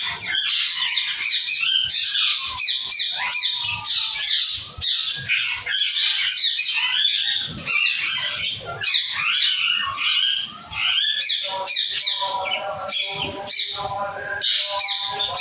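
A flock of budgerigars chirping and warbling, many high, quick calls overlapping without a break. From about twelve seconds in, a lower, harsher pitched call repeats over the chatter.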